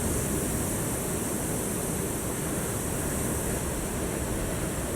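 Ocean surf making a steady, even rush of noise.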